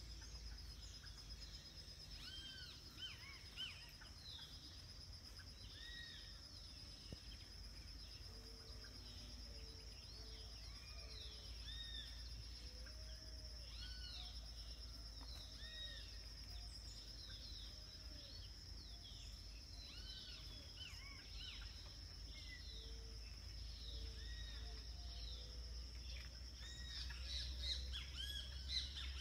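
Dawn chorus of many birds chirping and calling, thickening near the end, over a steady high-pitched drone and a low background rumble. A few low, short repeated notes sound in the middle.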